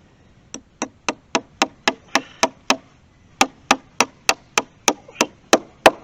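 Hammer blows in quick, even succession, about three or four a second: a run of nine strikes, a short break about three seconds in, then another run that grows louder.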